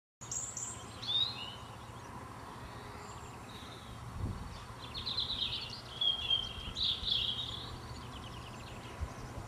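Small birds chirping and singing in short, high phrases, a cluster about a second in and a longer run in the middle, over a steady low outdoor background noise.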